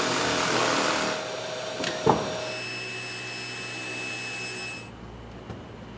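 A woodworking power tool or shop vacuum running loudly, then quieter, with a sharp knock about two seconds in; the machine sound drops away near the end, leaving a low hum.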